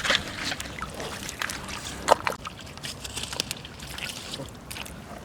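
Water sloshing and trickling, with scattered sharp clicks and knocks throughout.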